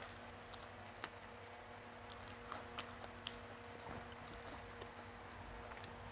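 Faint chewing of a mouthful of rice and fried greens eaten by hand, with small wet mouth clicks and soft squishing as the rice is mixed on the plate, over a faint steady hum.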